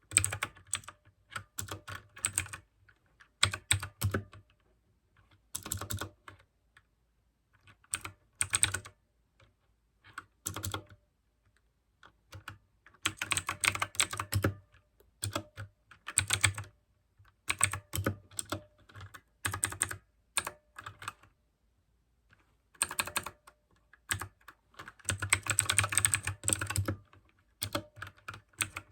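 Mechanical keyboard with clicky blue switches being typed on: quick runs of keystrokes in bursts, broken by short pauses.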